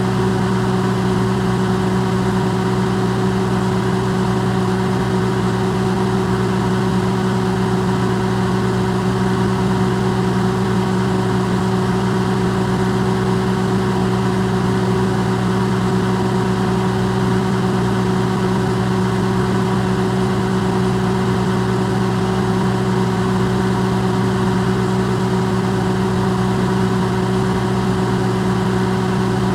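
Electrolux microwave oven running, recorded close and amplified: a steady, unchanging hum with a low drone and an even rushing noise over it.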